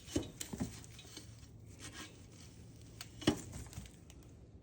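Rustling and scraping of packed, built-up grass being pulled out of a mower deck housing, with scattered light clicks and one sharper knock a little over three seconds in.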